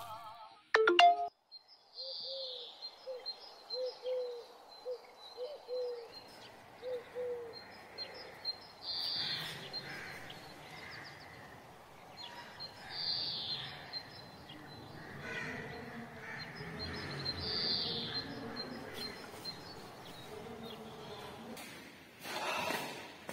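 Birds chirping: short high chirps recurring every few seconds, with a run of quick lower notes over the first few seconds. A short loud burst comes about a second in.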